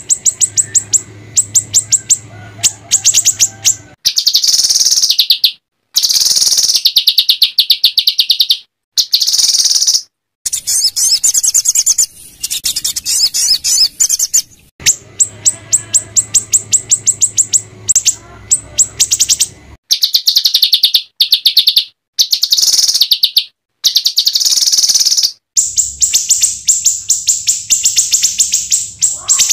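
Small songbirds singing rapid-fire, harsh chattering trills of sharp high notes, the 'tembakan' phrases of an edited birdsong master track for training white-rumped shamas. The bursts stop and restart abruptly several times.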